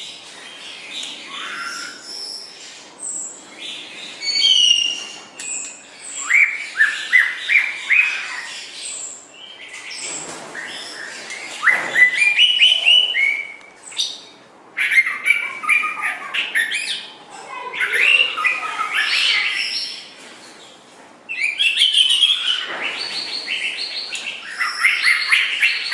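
White-rumped shama (murai batu) singing: loud, varied phrases of rapid whistled and chattering notes, broken by brief pauses.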